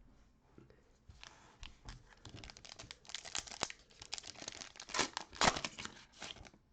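Plastic wrapper of a trading-card pack being torn open and crinkled by hand, an irregular crackling that starts about a second in and grows louder toward the end.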